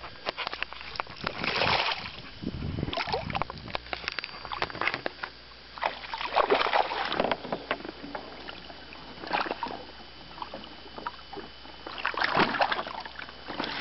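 Irregular splashing and sloshing of water around a small fishing boat, with scattered knocks and clicks.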